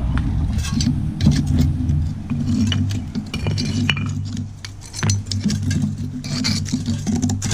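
Hand tools chipping and scraping loose concrete from steps: repeated metal-on-concrete clinks and scrapes, over a steady low hum.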